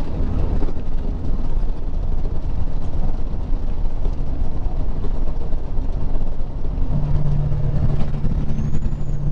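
Diesel engine and road noise inside a Peterbilt 379's cab while driving: a steady low rumble, with a steady hum coming in about seven seconds in.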